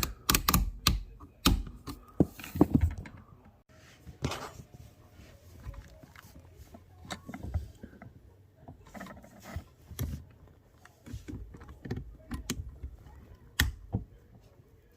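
Clicks, knocks and clatter of dishwasher drain parts being handled and pulled off by hand: a dense run of sharp knocks in the first three seconds, then sparser, quieter clicks and rustling.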